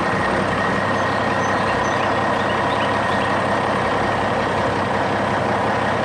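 Heavy construction vehicle's engine running steadily, with a faint high whine, fading in and out as a sound effect.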